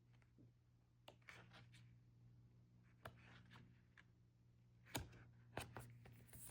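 Near silence with a steady low hum, broken by a few faint clicks and rustles of album pages or photocards being handled, the sharpest about five seconds in.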